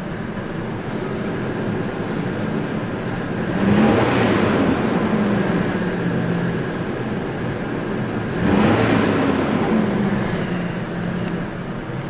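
2006 Dodge Dakota engine idling, then revved twice: a quick rise in pitch about four seconds in and again about eight and a half seconds in, each settling slowly back to idle. The truck shakes, and the engine is being revved to look for a suspected misfire that the scan tool does not show.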